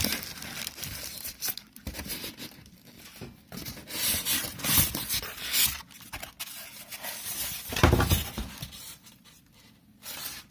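Plastic packaging rustling and crinkling in irregular bursts as parts of a food processor are unwrapped and taken out of the box, with a louder thump about eight seconds in.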